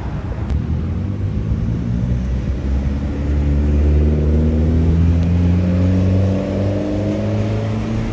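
A car engine running, its pitch climbing slowly from about three seconds in as it accelerates.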